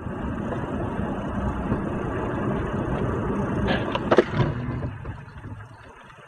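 Car driving: steady road and engine rumble, with a few short sharp knocks about four seconds in, fading away near the end.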